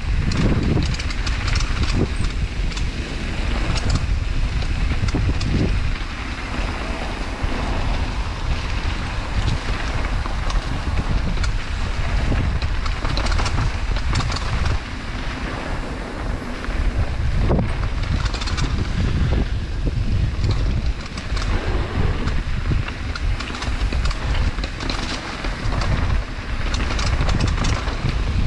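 Wind buffeting the microphone of a camera on a mountain bike rolling fast down a dirt trail, a heavy steady rumble with frequent clicks and rattles from the bike over rough ground.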